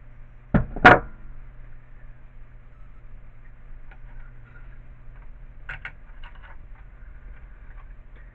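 Two sharp knocks of hard objects striking, about a third of a second apart, near the start, then a few faint handling clicks over a steady low hum.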